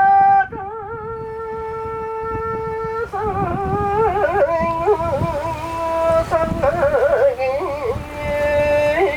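A single voice singing a Japanese folk boat song unaccompanied, in long held notes broken by wavering, ornamented turns, over a low rumble of wind and boat noise.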